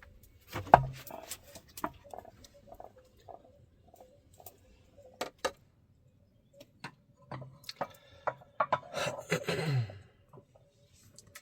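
Irregular knocks and clicks of objects being handled and set down, the loudest knock about a second in, with a short scraping rustle near the end.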